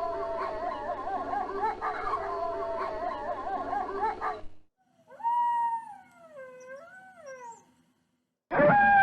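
Wolves howling: a chorus of several wavering, overlapping howls that cuts off about four and a half seconds in, then a single howl gliding down and back up, and a loud new howl starting just before the end.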